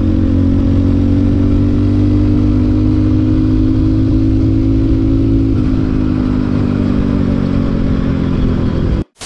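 Motorcycle engine running steadily under way on a road test, with the pitch easing slightly lower about five and a half seconds in. The engine has a freshly rebored cylinder with a new piston and rings and runs on oil treated with an engine oil additive. The sound cuts off suddenly near the end.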